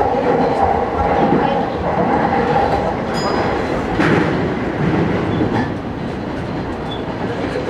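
E233 series electric commuter train running along the track, heard from the cab: a steady rumble of wheels and running gear, with a steady hum for the first three seconds and a brief high ring about three seconds in.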